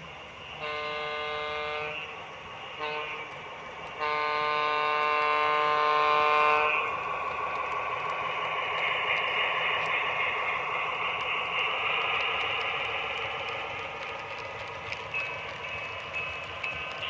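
Model diesel locomotive's horn sounding a long blast, a short blast and another long blast, followed by the train running steadily along the track.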